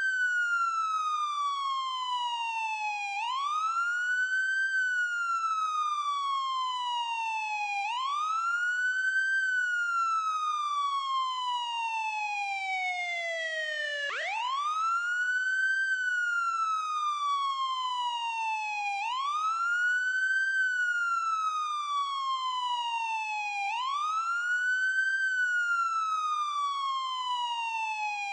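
Ambulance siren in a wail pattern: a tone that rises quickly and then falls slowly, repeating about every five seconds. Once, about halfway through, the tone drops lower before rising again.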